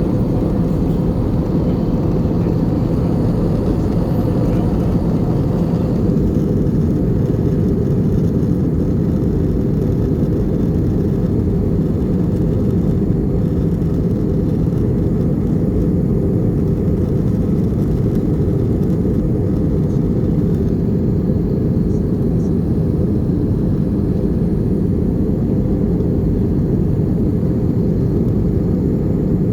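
Steady low rumble and rush of an Airbus A320's engines and airflow heard inside the passenger cabin in flight. The higher hiss eases slightly about six seconds in.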